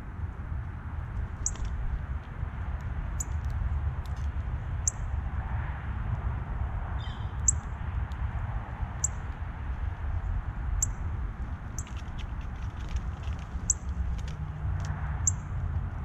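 A songbird giving short, sharp, high chip notes, one about every second and a half, over a steady low rumble.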